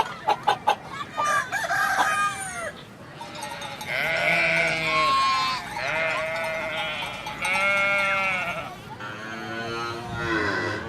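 Farm animal calls. A hen clucks rapidly for the first second or so, then a run of long, wavering bleats follows, each one to two seconds long.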